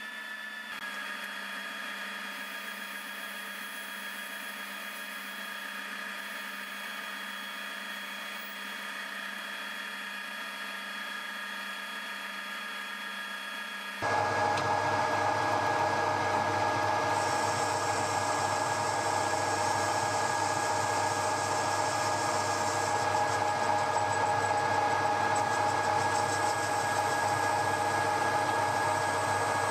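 Metal lathe running steadily while turning a short spigot on the end of the workpiece: a steady machine hum with several held tones. About halfway through it suddenly becomes louder and fuller, with much more low rumble.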